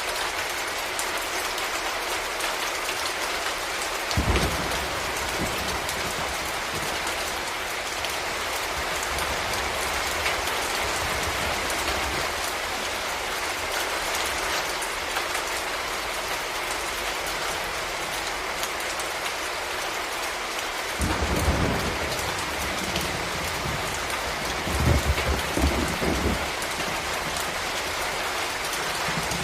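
Steady rain falling, with low rolls of thunder: one starting sharply about four seconds in, and two more in the last third.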